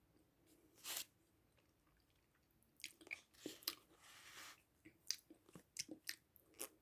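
Close-miked eating: a bite about a second in, then from about three seconds a quick run of sharp, clicking chewing sounds.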